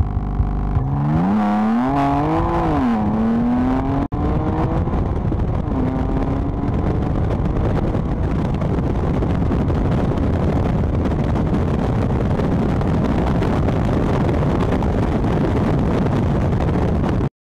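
BMW M4's twin-turbo straight-six held at steady launch-control revs for about a second, then launching: the engine note climbs, dips once at an upshift about two and a half seconds in, and climbs again. From about four seconds in, steady wind and road rush at speed covers a fainter engine until the sound cuts off just before the end.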